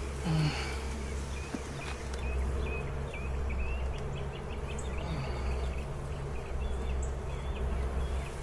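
Honeybees buzzing steadily around an opened hive, with a brief low bump about half a second in.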